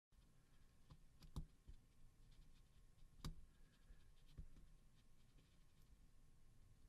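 Near silence with a few faint, sharp clicks and taps, strongest about a second and a half in and again past three seconds.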